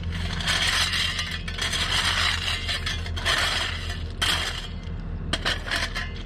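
Diesel heavy-equipment engine running steadily while a steel blade scrapes and grinds through gravelly dirt in repeated bursts, each about a second long, with a couple of sharp clinks near the end.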